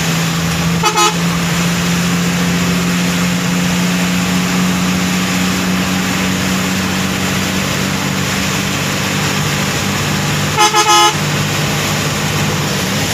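Vehicle horn sounding in short toots, two about a second in and a quick run of three or four near the end, over a steady engine drone.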